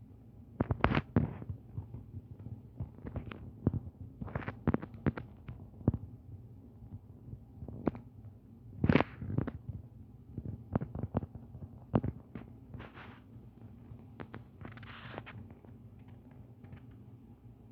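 Scattered, irregular clicks and knocks over a steady low hum, with two short rustling hisses near the end.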